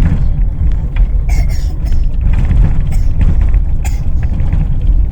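Vehicle in motion, heard from inside: a heavy, steady low rumble with scattered rattles and creaks from the body.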